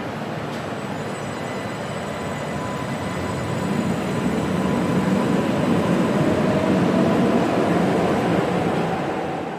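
Stuttgart Stadtbahn light-rail train running at the stop, getting louder toward the middle and easing off near the end, with a motor whine that rises in pitch.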